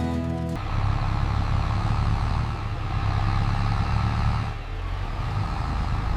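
Heavy vehicle engine running steadily, its sound mostly low, after a few music notes end about half a second in; the engine note shifts slightly about four and a half seconds in.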